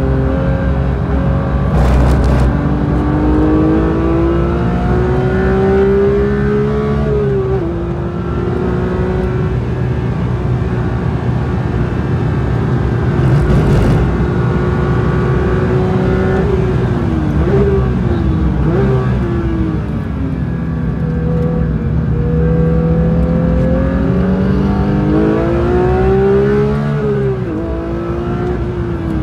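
Porsche 992 GT3's naturally aspirated flat-six, heard from inside the car, pulling hard with revs climbing through the gears. The pitch drops sharply at an upshift about seven seconds in, the revs dip and jump several times around the middle as the car changes down for a corner, then climb again before falling near the end.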